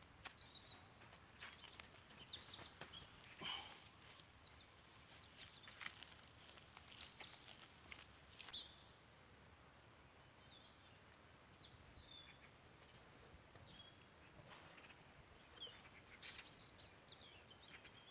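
Faint birds chirping: short, scattered calls over a quiet, steady background hiss, with a few soft clicks.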